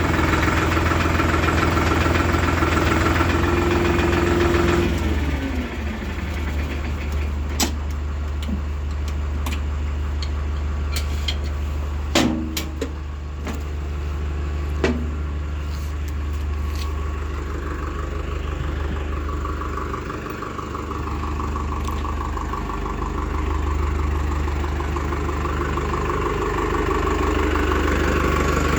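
Diesel engine of heavy farm or earthmoving machinery running fast, then dropping back toward idle about five seconds in. A few sharp metallic clanks come through the middle, and the engine picks up again toward the end.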